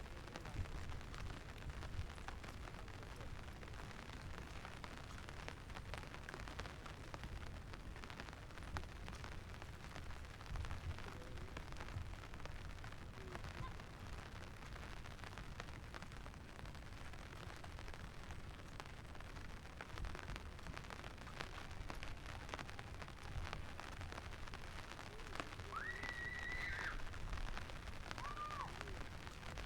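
Steady rain falling, a continuous hiss with many faint taps over a low rumble. Near the end come two short whistle-like calls, the first higher and longer, the second lower.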